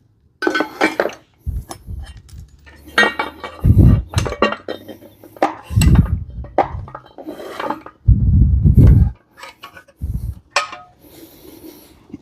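Metal plates clattering and clinking as they are handled and set down, with several heavier knocks against a hard surface.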